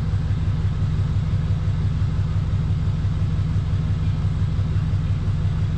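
Cummins 6.7-litre inline-six turbo-diesel idling steadily, a low even rumble heard from inside the truck's cab.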